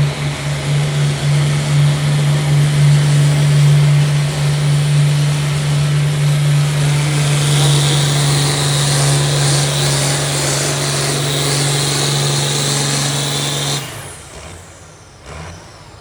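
Pulling tractor's engine running hard at steady high revs under load down the track. A high whine joins about halfway, and the engine drops off abruptly near the end as the pull ends.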